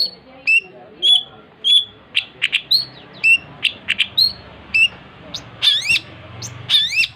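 Long-tailed shrike (cendet) in full song: a rapid, uneven run of sharp chirps and short whistled notes. Near the end there are a few rising-and-falling swept calls.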